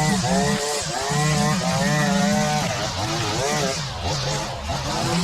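Two-stroke line trimmer engine being revved up and down over and over, its pitch rising and falling about once a second as the throttle is squeezed and eased while trimming grass.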